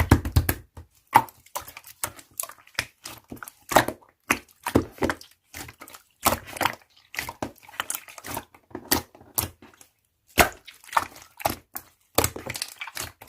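Slime being pressed and squished by hand, giving quick irregular crackling pops and clicks, several a second.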